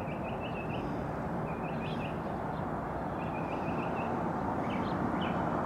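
Steady outdoor background rumble with small birds chirping above it in about four short runs of quick, high notes.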